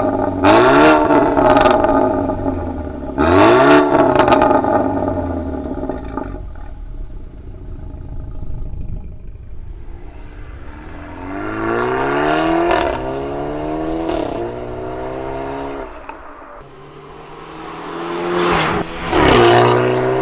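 BMW F30 320i's turbocharged four-cylinder engine through an ARMYTRIX aftermarket exhaust, revved in several quick blips that rise and fall. Later it accelerates with the pitch climbing, dropping at gear changes, and climbing again to a loud rev near the end.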